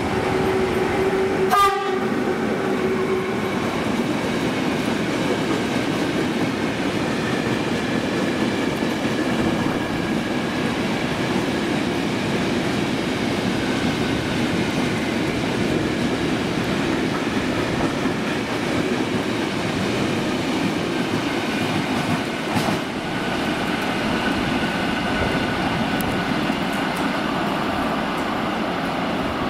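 A Medway electric freight locomotive sounds its horn in one blast lasting about three seconds as it enters the station. A long train of empty flat wagons then rolls steadily past.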